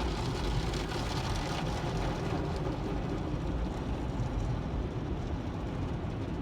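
Automatic car wash heard from inside the car's cabin: a steady rush of water and machinery, with a low rumble, as the wash's cloth strips work over the car.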